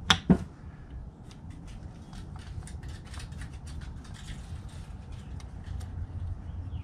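Two sharp knocks, then light, irregular clicking from hand work on pistons and piston rings during an engine rebuild.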